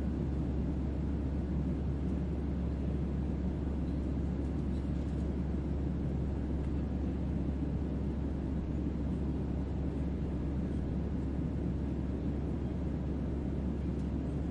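Synthetic starship-interior ambience: a steady low hum with deep bass under even white noise.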